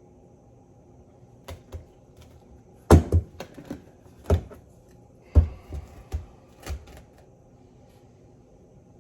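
Sharp clicks and knocks from a steering box and tools being handled during teardown: about a dozen in a few seconds, loudest about three seconds in and again a couple of seconds later.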